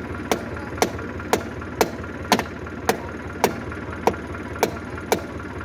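About ten heavy, evenly spaced blows, roughly two a second, struck at a jammed piece of wood to break it free, over a tractor engine idling steadily.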